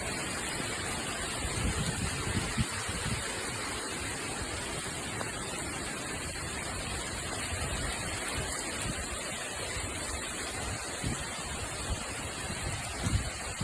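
Heavy rain pouring down in a steady hiss, with a few brief low buffets of wind on the microphone about two seconds in and again near the end.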